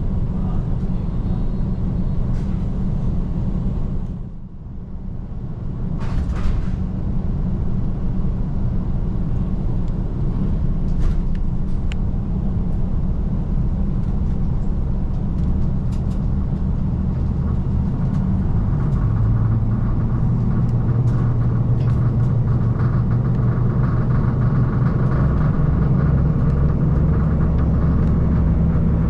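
KiHa 185 series diesel railcar under way: a steady low engine drone mixed with wheel and rail rumble and a few faint clicks. The sound dips briefly about four seconds in, and the engine note grows stronger and steadier in the second half as the train pulls harder.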